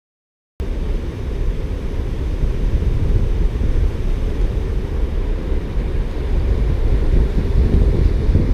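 Strong wind buffeting the microphone: a loud, steady low rumble that starts abruptly about half a second in.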